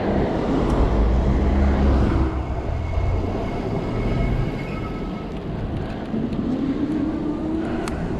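Street traffic: a heavy low rumble of a vehicle passing during the first couple of seconds, then a softer rumble, with a rising whine of a vehicle pulling away near the end.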